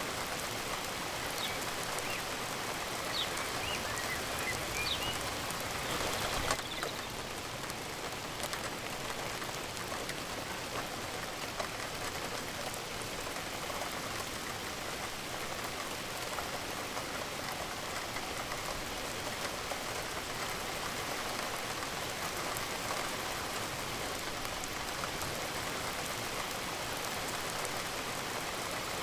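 Steady rain falling on a surface, a dense even patter of drops. A few faint short high chirps sound in the first five seconds, and there is one brief louder burst about six seconds in.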